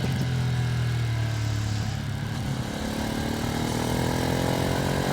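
2025 Ducati Streetfighter V2S's 890 cc V-twin running under way, its note easing slightly over the first couple of seconds, then the revs climb steadily through the second half. It is on light throttle during the engine's break-in period.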